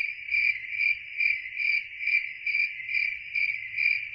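Cricket chirping: a steady high trill that swells and fades a little over twice a second.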